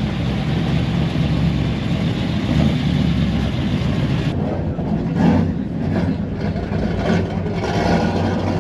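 A car engine running loudly, a steady rumble whose sound changes about four seconds in.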